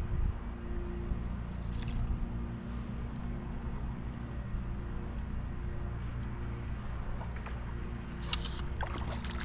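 Steady high-pitched insect chorus, such as crickets, running over a low rumble, with a few brief sharp sounds near the end.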